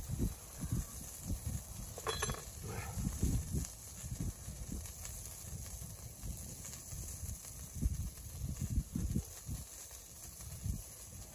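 Rain pattering on the tent fabric in irregular soft thuds over a steady hiss, with one brief sharper sound about two seconds in.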